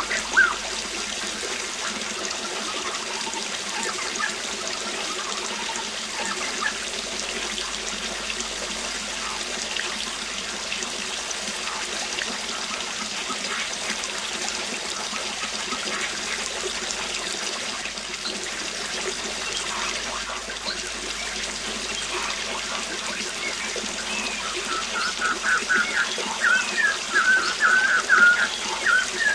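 Waterfall rushing steadily, with birds chirping now and then and a quick run of bird chirps near the end.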